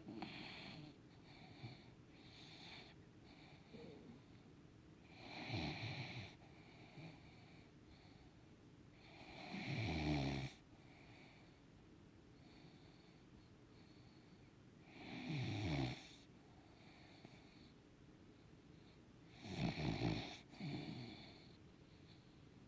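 A puggle (pug–beagle cross dog) snoring: four loud snores, one every four to five seconds, each dropping in pitch, with softer wheezy breaths between.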